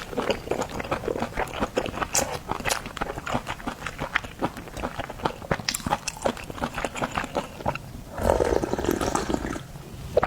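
Close-up mouth sounds of eating oysters: wet chewing and lip-smacking in a quick run of sticky clicks, then a loud slurp lasting about a second and a half near the end.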